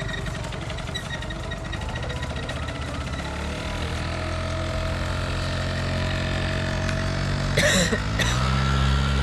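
Small scooter engine running steadily, then rising in pitch near the end as it speeds up. Two short noisy bursts come just before the pitch rise.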